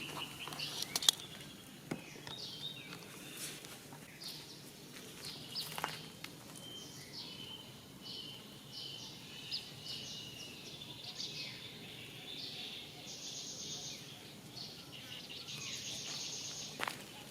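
Outdoor ambience of many short, high chirping calls, each falling in pitch, with two stretches of dense high buzzing in the latter half and a few sharp clicks.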